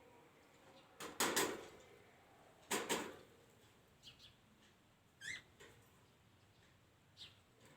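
Small birds calling: two loud, harsh bursts about one and three seconds in, followed by a few short, thin high chirps.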